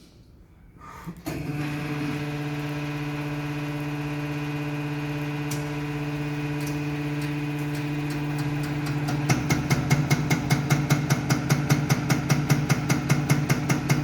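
Diesel unit-pump test bench starting up about a second in and running with a steady hum. About nine seconds in, a fast, even pulsing joins it as the Mercedes Actros unit pump on the bench begins its strokes.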